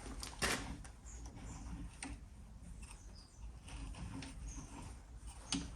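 A few sparse, faint knocks and clicks of a steel plate being handled and set into a bench vise, the strongest near the end.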